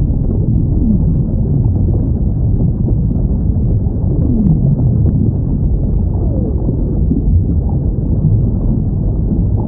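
Whale calls recorded underwater: a few low moans that slide downward in pitch, one about a second in, a stronger one about four seconds in and another near six seconds, over a steady deep rumble of water noise.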